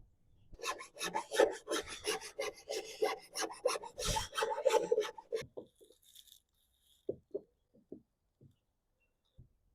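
Rapid back-and-forth rasping strokes on the fiberglass edge of a freshly cut rod-holder hole in a boat deck, several a second. The rasping stops about five and a half seconds in, followed by a few light clicks.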